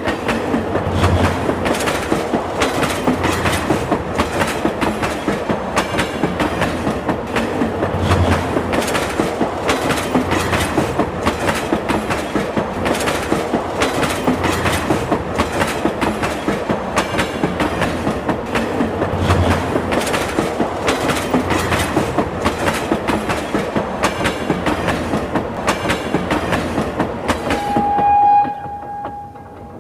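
The 12663 Howrah–Trichy Superfast Express passing at speed, its coach wheels clattering rapidly over the rail joints. Near the end comes a short horn note, and the clatter cuts off.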